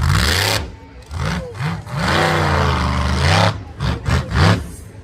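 A monster truck's engine revving up and down in repeated blips, with longer held revs in the middle.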